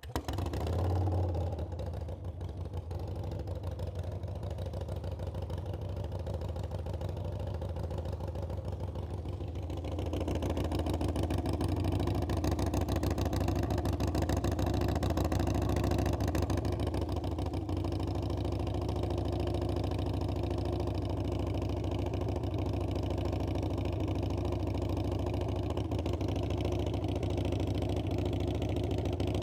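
Harley-Davidson Iron 883's air-cooled V-twin engine starting up, flaring briefly and then running steadily. About ten seconds in it gets louder and stays so.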